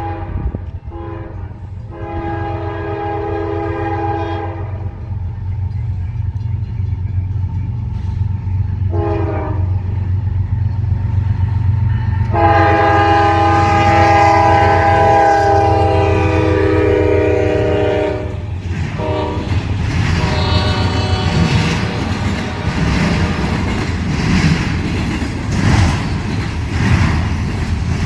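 Diesel locomotive's multi-chime air horn sounding a series of blasts, two of them long and the others short, over the steady rumble of the locomotive. From about two-thirds of the way in, the horn stops and the train passes with its wheels clattering over the rails.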